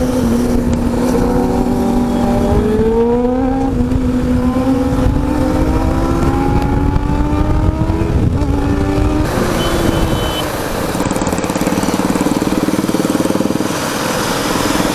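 Motorcycle engine under way, its pitch rising steadily as it accelerates for about eight seconds, then dropping about eight and a half seconds in as the throttle is rolled off or a gear is changed. After that it runs more steadily under the rush of wind.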